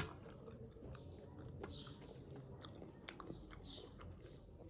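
A person chewing a mouthful of panipuri close to the microphone: faint chewing with scattered small clicks.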